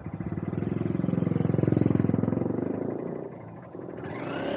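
A motorcycle engine running with a fast, even beat. It swells louder about two seconds in, then fades. Near the end a second engine comes in with a rising note, as if accelerating.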